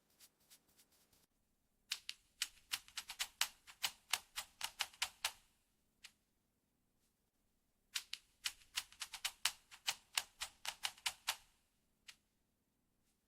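Fingernails tapping on a makeup palette: faint taps at first, then two runs of quick, crisp clicks, several a second and each lasting a few seconds, with a pause between.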